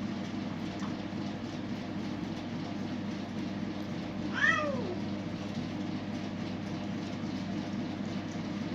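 A street cat meows once, a short call about halfway through that rises and then falls in pitch, over a steady low background hum.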